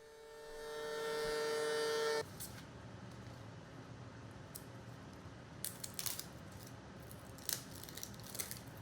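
A steady pitched hum swells up for about two seconds and cuts off suddenly, followed by a low background with a few light clicks and knocks.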